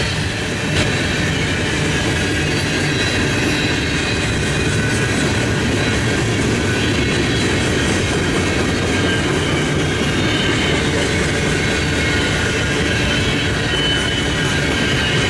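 Freight train cars rolling steadily past on the rails, with a thin high squeal from the wheels over the constant rumble.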